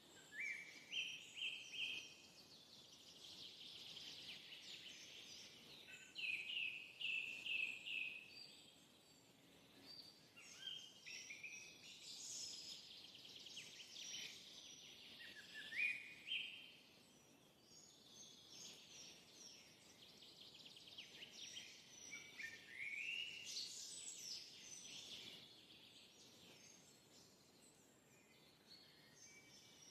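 Birds singing, with repeated phrases of quick rising chirps and rapid trills every few seconds over a faint steady hiss.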